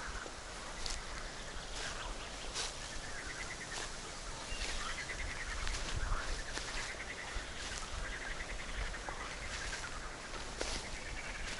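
Footsteps on a forest path, a crisp step about every second, while birds give repeated trilling calls in the background.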